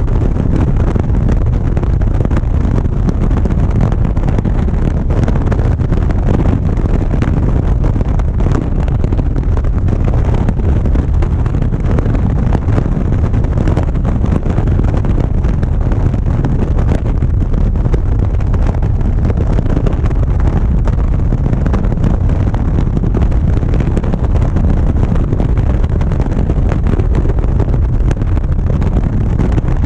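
Steady roar of wind over a camera on a moving motorcycle at road speed, heaviest at the low end, with the motorcycle's engine and tyres running underneath.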